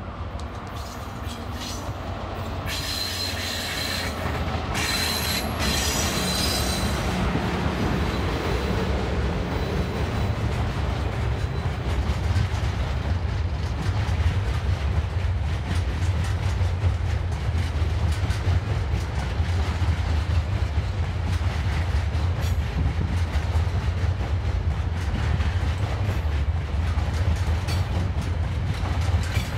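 TasRail diesel-electric locomotives and a freight train of empty container and log wagons passing close by. The low engine drone grows louder and then holds. High wheel squeal is heard for a few seconds near the start, and the wagon wheels clack over the rail joints.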